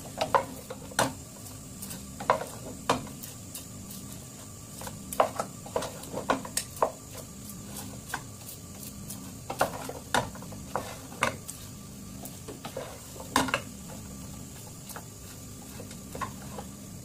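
Spoons stirring caramel-coated popcorn in a pan, with irregular clinks and knocks of metal on the pan over a faint steady hum.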